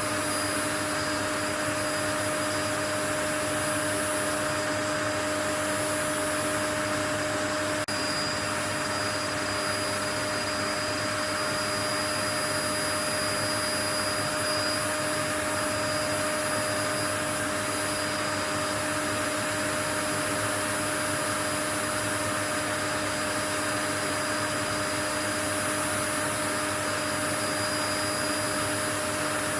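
Steady white noise, an even rushing hiss with a faint constant hum and high whine running through it, unchanging throughout.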